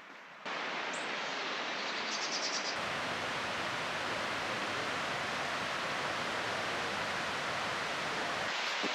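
Steady rushing of water from a beck or waterfall, a constant hiss-like noise that starts abruptly about half a second in.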